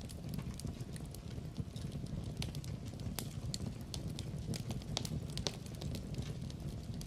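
Wood fire burning in a fireplace: a steady low rumble with irregular sharp crackles and pops, a handful of them louder than the rest.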